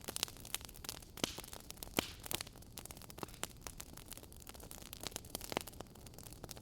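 Fireplace crackling: irregular sharp pops and snaps over a soft steady hiss, the loudest pop about two seconds in.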